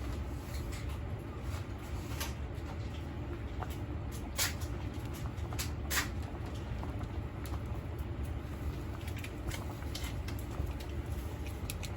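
Low steady hum with scattered light clicks, and two sharper taps about four and a half and six seconds in.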